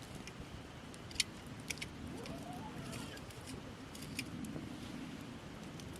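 Wood campfire of gathered branches crackling over a low steady rush, with a few sharp pops, the loudest about a second in.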